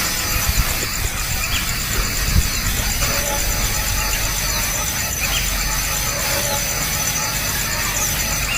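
Steady outdoor background hiss with a constant thin high whine, and a few short faint chirps from the nestling birds.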